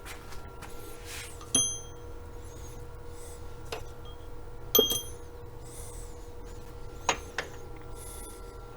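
Steel sockets and hand tools clinking, three sharp clinks each with a brief metallic ring, spread out about every two or three seconds, plus a few lighter ticks. A faint steady hum sits underneath.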